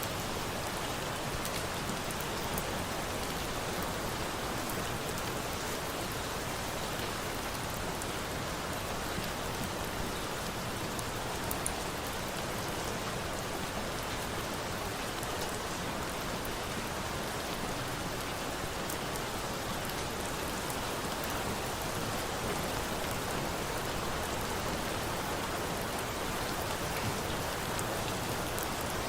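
Steady rain falling on a surface, an even hiss with occasional faint ticks.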